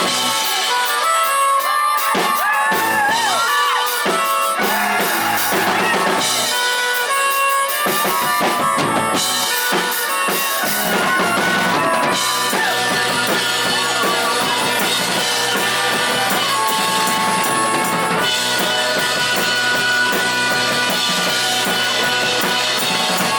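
Live rock band playing, with a full drum kit and guitars.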